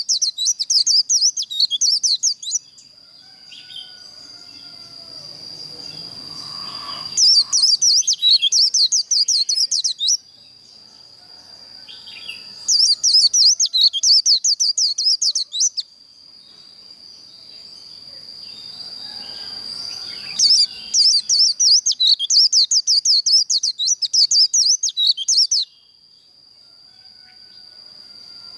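White-eye singing its fast, twittering 'líu' song in four bursts of a few seconds each, separated by short pauses. A thin, steady high-pitched whine runs underneath throughout.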